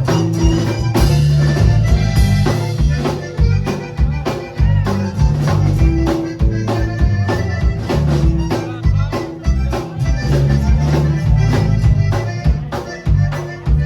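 Live band music: an accordion playing over bass and drums with a steady beat.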